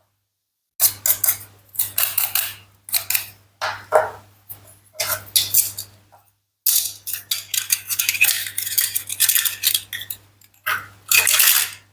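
Toy knife cutting plastic and wooden toy fruit and vegetables: a series of short bursts of clicking and clattering, cut off sharply between them, with a longer, busier stretch of rattling clicks in the second half.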